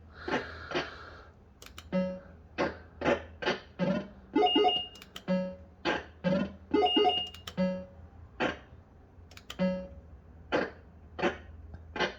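Bell-Fruit Wild Cats System 85 fruit machine playing its electronic sound effects: a run of short beeping notes at several pitches, one about every half second, after a brief noisier burst at the start.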